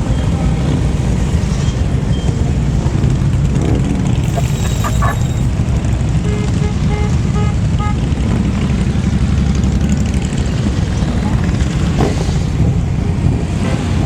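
A steady stream of motorcycles riding past, their engines making a continuous, dense low rumble.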